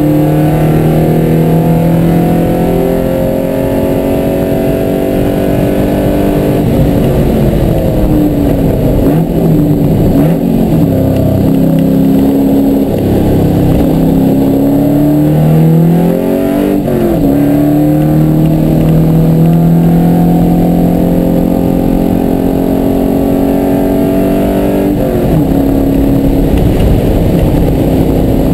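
Car engine heard from inside the cabin while lapping a race track: the engine note drops as the car brakes hard for a slow corner, jumps in pitch at quick gear changes around the middle, then pulls steadily again under acceleration.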